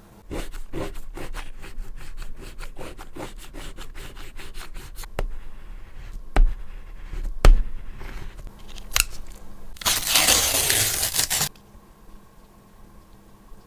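Close-up handling sounds: a fast run of small sharp snips or clicks for about five seconds, then two loud single clicks, then about a second and a half of scratchy hiss that stops suddenly.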